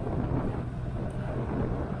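Motorcycle engine running steadily at a constant low pitch, with wind rushing over the microphone.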